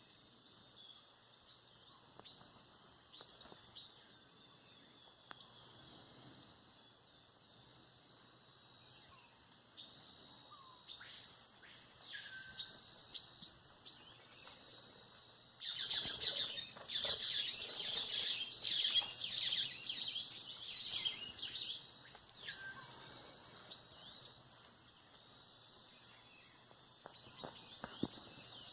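Birds calling and singing at dawn over a steady high-pitched drone, with scattered short chirps and whistles. A little past halfway the birdsong grows louder and denser for about six seconds, then thins out again.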